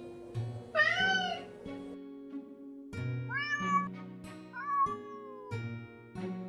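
Domestic cat meowing three times, each call rising and then falling in pitch, the last trailing downward. Background music with plucked notes plays underneath.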